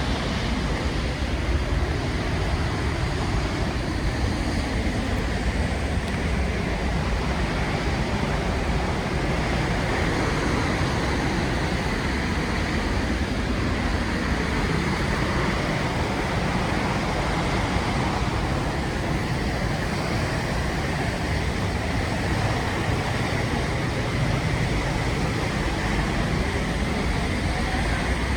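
Rhine Falls waterfall: a steady, loud rush of falling water that does not change.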